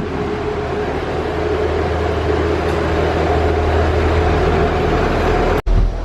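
Shuttle bus engine running with a steady low rumble and a held whining hum. The sound cuts out sharply for an instant near the end.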